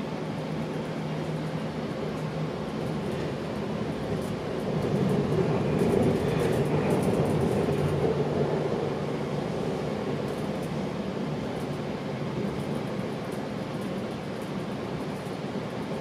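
Steady rumble and rush of a GO Transit commuter train running on the rails, heard from inside a passenger coach. It swells louder for a few seconds about five seconds in.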